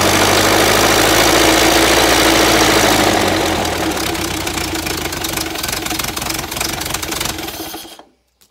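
Ford Model A four-cylinder flathead engine running on a test stand. About three seconds in it drops to a slower, quieter idle, then dies away and stops near the end. The owner judges it to be running well.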